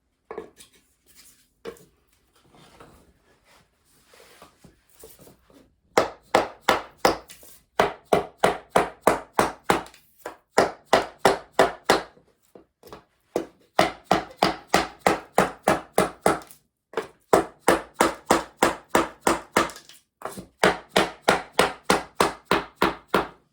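Rapid, evenly spaced strikes, about five a second, in several runs with short pauses, tapping a 2x2-ft foam-backed compressed-wood subfloor tile tight against its neighbour. A few lighter, scattered knocks come before the runs begin.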